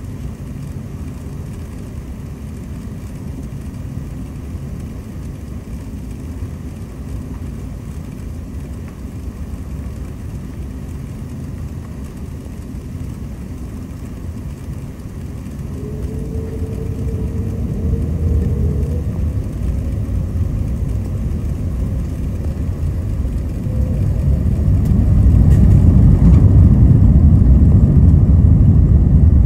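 An airliner's jet engines heard from inside the cabin, spooling up for takeoff. A steady low rumble grows louder about halfway through, with a rising whine, then louder again near the end.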